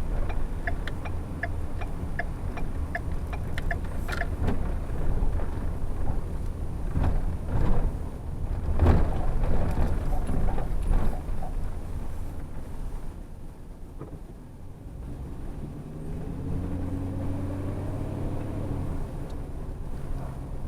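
Low rumble of the airport shuttle's engine and tyres heard from inside the vehicle. For the first few seconds a turn signal ticks about twice a second, and a few knocks from bumps follow. Near the end the engine note rises as the shuttle pulls away and speeds up.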